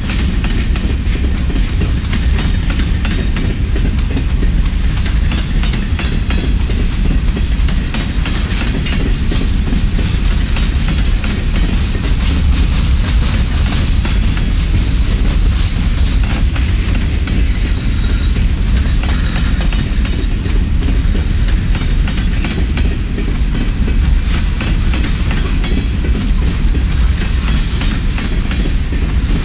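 Empty coal hopper cars of a freight train rolling past at close range: a steady rumble with the wheels clicking over the rail joints.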